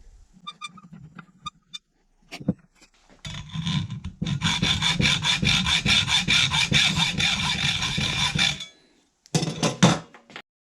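Hand saw cutting through a metal doornail with fast, even back-and-forth strokes and a faint metallic ring. A few light clinks come first, then about five seconds of steady sawing, and a short burst of strokes near the end.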